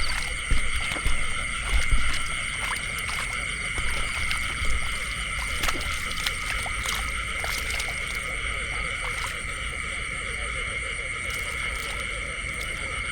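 Steady chorus of calling frogs, several unbroken pitches held throughout, with scattered faint clicks and a few low thumps in the first couple of seconds.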